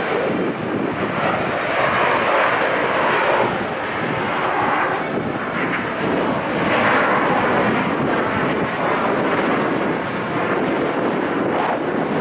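Canadair CT-114 Tutor jets flying a display, their jet noise swelling and fading several times as the aircraft pass.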